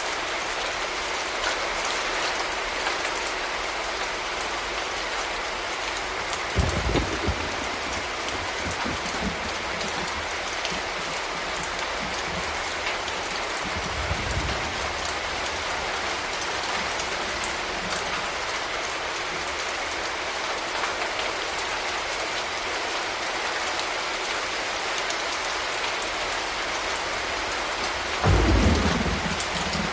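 Steady heavy rain falling on hard surfaces, with short low rumbles of thunder three times: about seven seconds in, around halfway, and loudest near the end.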